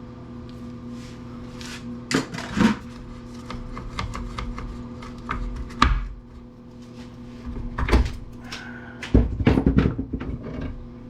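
Parts of a power wood planer being handled and knocked together during teardown: a series of irregular knocks and rattles, with the busiest stretch near the end.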